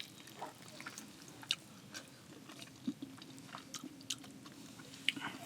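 A person chewing food, with scattered small crunching clicks.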